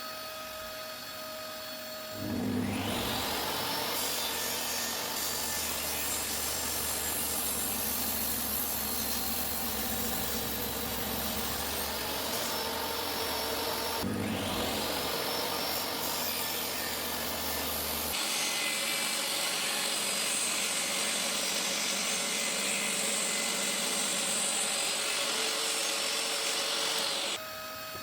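DeWalt DWE7492 job-site table saw running with a steady motor whine, its blade cutting through wood in a long, loud cut from about 2 s in. The cutting sound dips and builds again about halfway, then stops near the end, leaving the motor running free.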